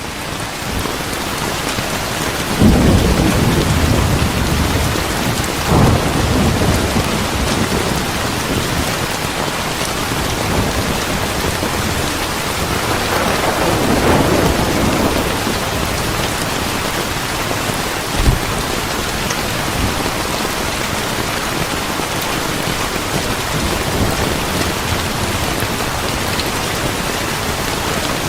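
Steady rain with rolls of thunder: a sudden rumble about two and a half seconds in, another around six seconds, a longer roll in the middle, and a short sharp clap a little later.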